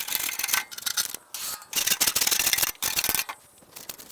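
A hand scraper scraping old, stuck hay off the inside of a round baler, in about four rough strokes with short pauses between.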